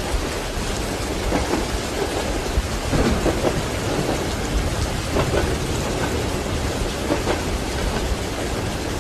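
Steady heavy rain with a continuous low rumble of thunder, with no single sharp thunderclap.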